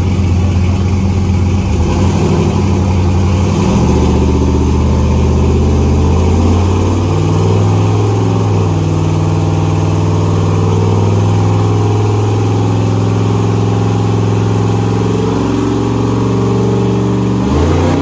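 Twin-turbocharged 6.0-litre V8 running hard under load on a dyno, its pitch climbing in steps and then holding high. Near the end the note falls off sharply as the throttle comes off.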